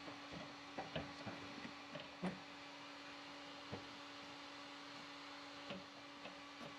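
A faint steady hum with a handful of small clicks and knocks from hand work on a light fixture's parts and wiring, the loudest about two seconds in.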